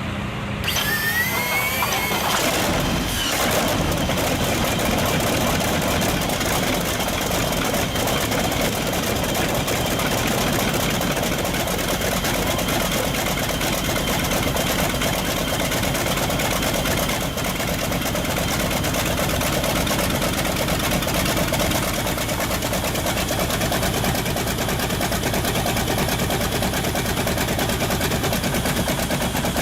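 Big Curtiss-Wright aircraft piston engine cold starting: a rising whine in the first couple of seconds, the engine catching about three seconds in, then running loud and steady.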